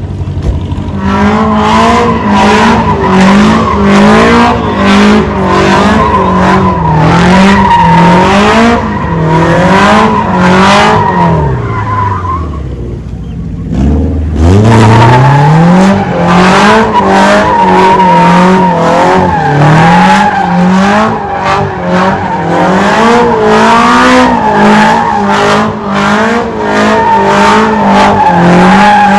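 V8 car doing donuts: the engine is held high, its pitch rising and falling about once a second, while the tyres squeal steadily. About twelve seconds in, the revs fall away and the squeal stops briefly, then the engine climbs back up and the tyres spin and squeal again.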